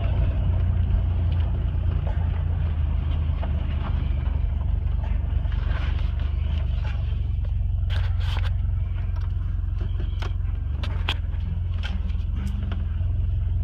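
Toyota 22R-TE turbocharged 2.4-litre four-cylinder running steadily, with a deep low drone. A few sharp clicks or rattles come in about eight to twelve seconds in.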